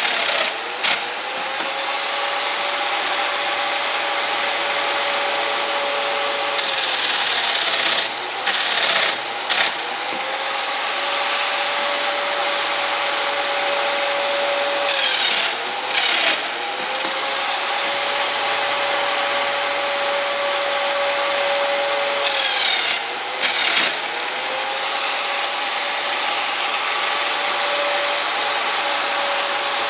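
High-speed electric power tool running steadily and cutting wood, its motor pitch sagging under load and then climbing back up, three or four times about seven seconds apart.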